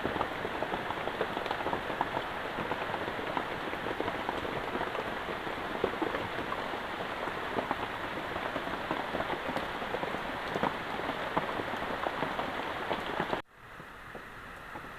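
Heavy rain falling, a dense patter of many drops hitting a surface. It cuts off abruptly near the end, leaving a quieter, even hiss.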